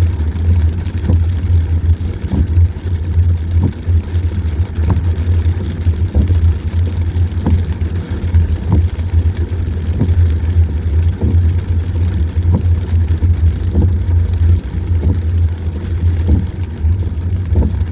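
Car driving through a heavy rainstorm, heard from inside the cabin: a steady low rumble under an even hiss of rain and road noise, with a faint regular tick about every second and a quarter.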